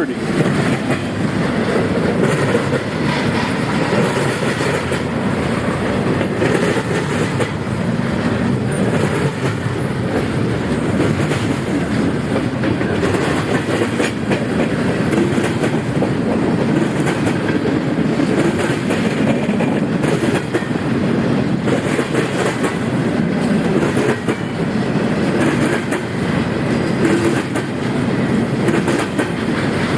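Norfolk Southern freight train's cars rolling steadily past: a continuous rumble with the clickety-clack of wheels over the rail joints.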